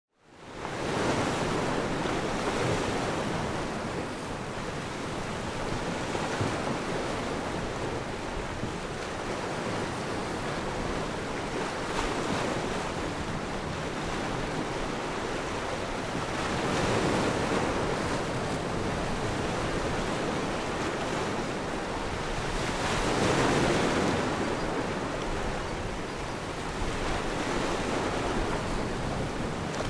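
Ocean surf sound effect: a steady wash of waves that fades in at the start and swells louder every several seconds as waves break.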